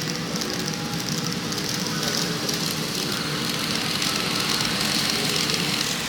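N-gauge model train running on a layout's track, its small electric motor giving a steady hum that stops near the end, over a constant hiss.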